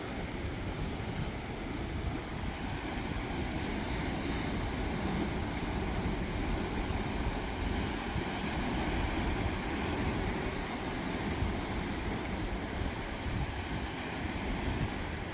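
Steady seaside noise of surf washing in and wind, with wind buffeting the microphone in a low, fluttering rumble.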